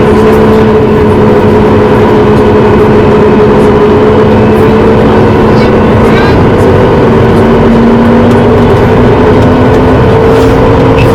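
Cabin noise of a Boeing 737 MAX 9 with its CFM LEAP-1B engines at high thrust: a loud, steady rush with a hum that slowly rises in pitch.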